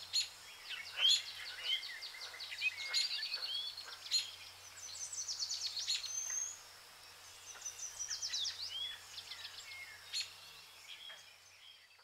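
Small birds chirping and twittering: many quick high notes, short downward sweeps and a few rapid trills.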